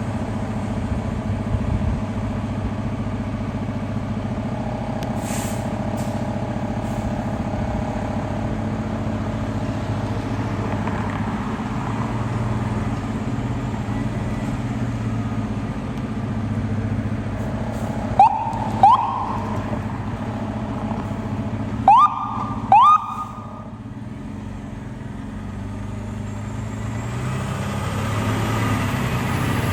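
Fire truck responding, its engine rumbling steadily with road noise, then two pairs of short rising siren whoops a few seconds apart past the middle. The rumble drops away after them and builds again near the end.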